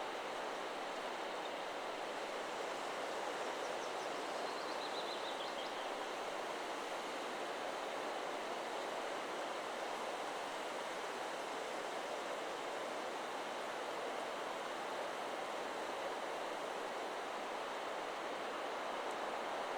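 Steady wind rushing through forest trees, with a brief, faint high bird trill about four seconds in.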